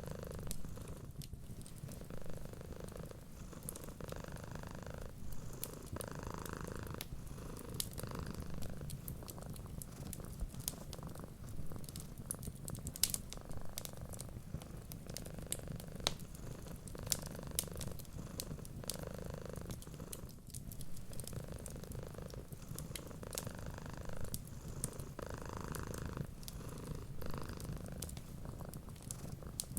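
Domestic cat purring steadily, a low rumble that swells with each breath about every two seconds, with the scattered snaps and pops of a crackling wood fire.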